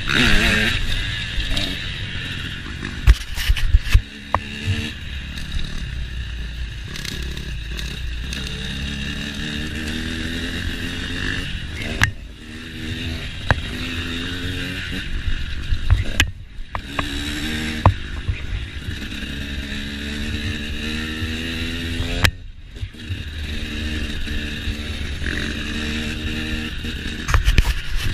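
KTM motocross bike engine revving hard, its pitch climbing again and again as it pulls through the gears. It is broken by sharp knocks and a couple of brief dips in the engine sound.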